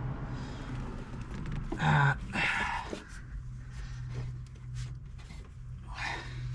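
Strained grunts and heavy breaths of effort, loudest about two seconds in and again near the end, while tugging at a stuck old rubber heater hose, with rubbing and scraping noises over a steady low hum.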